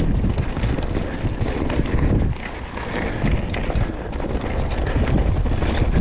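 Wind buffeting the microphone of a camera on a mountain bike riding down a dirt singletrack, over a steady rattle and clatter of the bike and tyres on rough ground.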